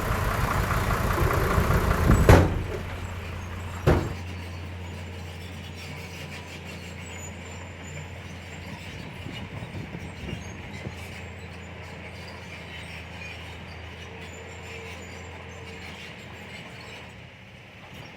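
Heavy diesel earthmoving machinery running: loud at first, then two sharp knocks about two and four seconds in, after which a steadier, lower engine hum carries on.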